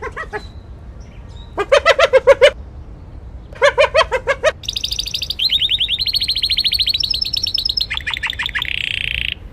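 Bird calls: two short bursts of rapid chattering notes, then a long, high, fast-trilling song that shifts pitch in steps.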